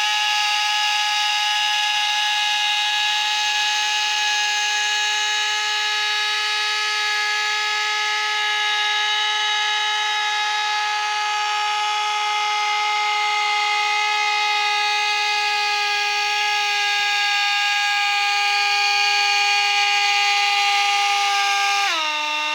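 Small electric motor of a toy aircraft spinning its propeller at steady high speed, a constant high whine; near the end the pitch drops as the motor starts to spin down.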